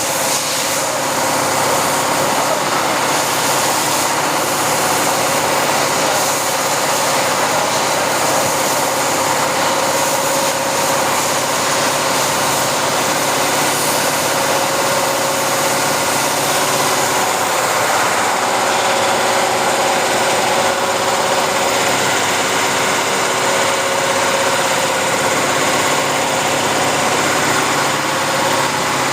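A machine running steadily, with an even hum and a whine that do not change in level or pitch.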